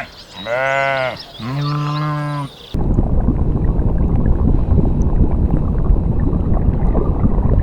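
Two bleats from a farm animal, each about a second long, with faint bird chirping behind them. About two and a half seconds in the sound cuts abruptly to a loud, steady low rumbling noise.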